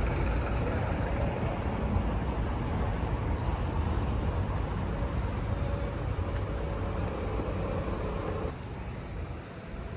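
A motor vehicle's engine running close by: a low rumble with a steady hum above it, which drops away abruptly about eight and a half seconds in.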